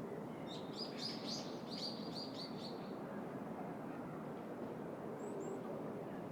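A songbird sings a quick, even run of chirps for about two and a half seconds, and a couple of brief high chirps follow near the end, over the steady background noise of the city.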